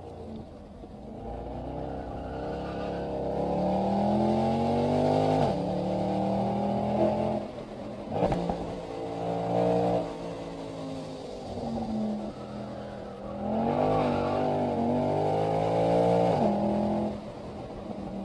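Mercedes-Benz SL63 AMG V8 heard from inside the cabin, pulling through the gears. The revs climb, fall away sharply twice, and climb again, with a sharp click about eight seconds in.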